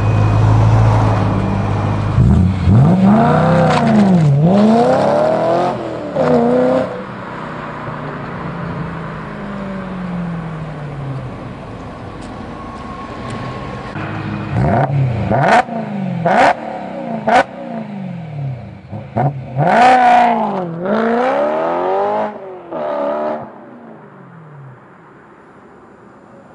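Car engine and exhaust idling and revved in blips. Revs climb and fall a few seconds in, then again in a run of revs in the second half with several sharp cracks. It drops to a quieter idle near the end.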